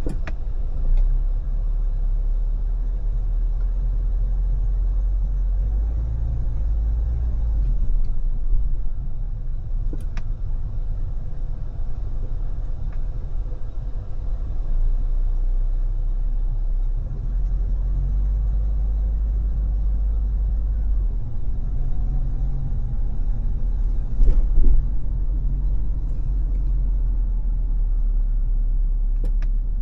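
Car cruising on a freeway: a steady low rumble of tyre and road noise with wind. A few brief clicks or knocks, the loudest about 24 seconds in.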